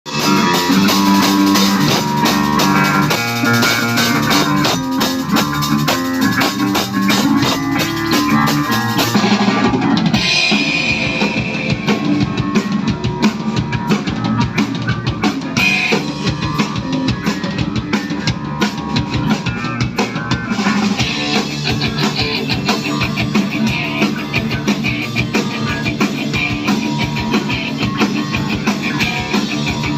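Loud rock music played by a band on drum kit and electric guitar, driving and rhythmic, the cymbal wash dropping away about nine seconds in.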